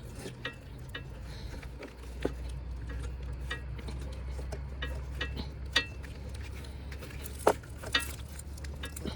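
New rubber radiator hose being worked onto the radiator neck by hand, with scattered small clicks and rubbing and a couple of sharper taps, over a steady low hum.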